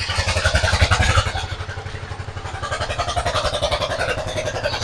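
Sawmill engine running steadily, with a rapid, even beat of firing strokes.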